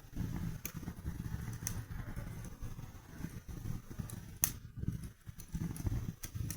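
Wood fire burning in a fireplace: a steady low flutter of flames with scattered sharp crackles and pops, the loudest about four and a half seconds in.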